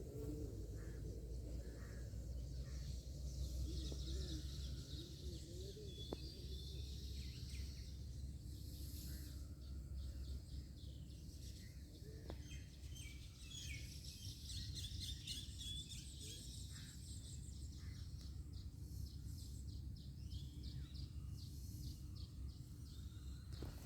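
Small birds chirping and calling on and off, busiest around the middle, over a steady low rumble of background noise.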